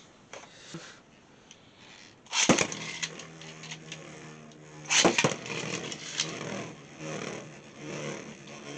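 Beyblade X spinning tops clattering into the plastic stadium about two and a half seconds in, with a second loud clash about five seconds in. After that the tops spin with a steady whirr, broken by scattered knocks and scrapes.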